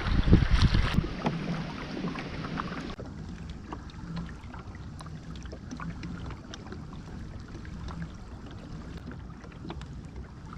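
Wind buffeting the microphone for about the first second, then water lapping and splashing against a kayak hull on open water, with scattered light knocks and ticks.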